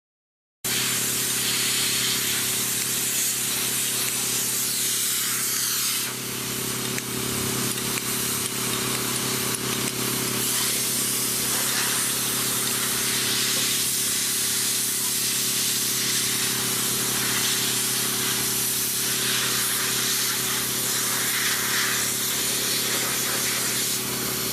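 Steady loud hiss over a low, even machine-like hum, cutting in abruptly about half a second in.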